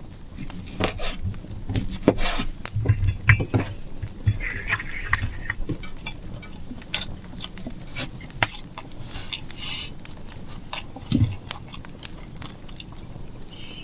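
Irregular clinks, taps and rustles of utensils, food containers and packaging being handled, over a faint steady low hum.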